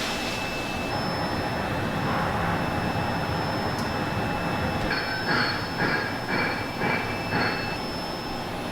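Steady machine noise with thin high squealing tones. In the second half, about six squeaks come roughly two a second, then stop.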